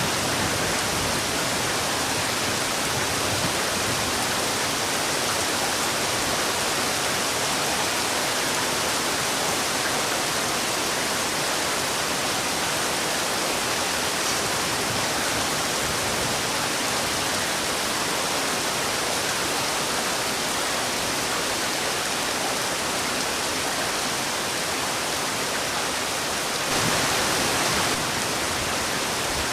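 Heavy rain falling in a steady, dense hiss, with a brief louder swell near the end.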